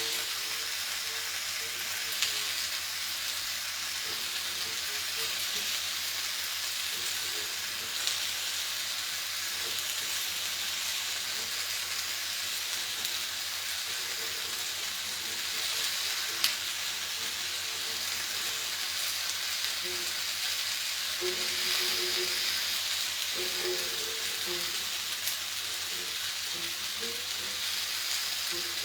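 Stir-fry of chicken, mushrooms and green vegetables sizzling steadily in a pan on the stove, left to steam. A few sharp pops sound through the sizzle, about 2, 8 and 16 seconds in.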